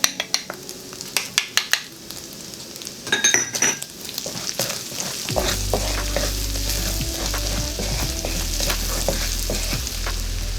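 Minced garlic sizzling in hot oil in a wok, stirred with a metal spatula that clicks, scrapes and rings against the pan. About halfway through a steady low hum sets in and the sizzling grows louder.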